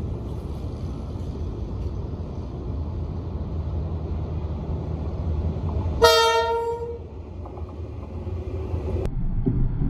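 Diesel locomotive approaching with a steady low rumble, sounding one short horn blast about six seconds in. Near the end the rumble turns abruptly louder and keeps rising as the train draws close.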